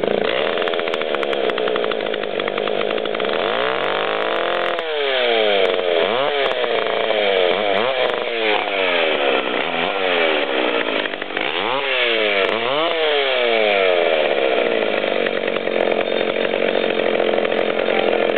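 McCulloch Pro Mac 610 two-stroke chainsaw running just after a semi-cold start on partial choke, held steady, then revved up and down in quick blips several times, with a second round of blips later before it settles back to steady running.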